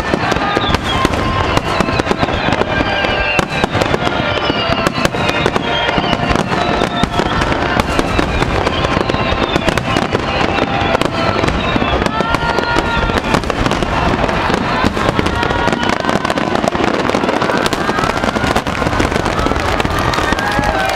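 Fireworks finale barrage: a dense, unbroken run of shell bursts and crackle, with many whistling tones gliding in pitch, mostly falling, over the top.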